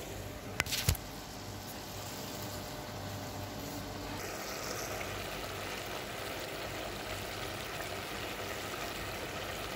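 Diced chicken and mushrooms sizzling steadily in their own juices in a steel pot, with two sharp knocks a little under a second in.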